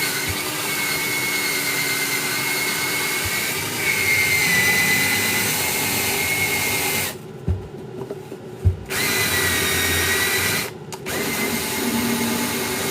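A small power tool's motor running with a steady high whine. It stops for almost two seconds about seven seconds in, with two knocks during the pause, and cuts out again briefly near eleven seconds.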